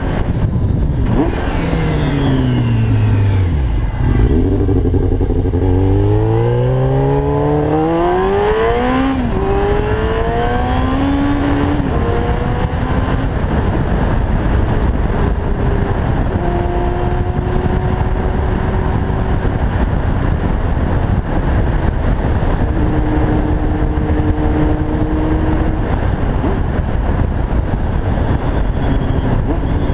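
1990 Yamaha FZR 600's inline-four engine through a Yoshimura exhaust, under heavy wind rush. The engine note falls for the first few seconds, then rises steeply under hard acceleration with gear changes from about eight to twelve seconds in, and after that runs at steadier, held revs.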